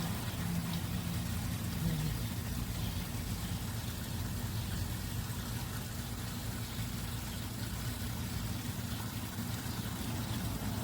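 Tiered outdoor water fountain running: a steady wash of falling water over a low hum.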